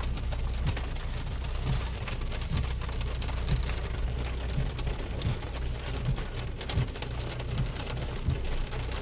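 Heavy rain falling on a car, heard from inside the cabin: a steady wash of many small drop hits, with a steady low hum underneath.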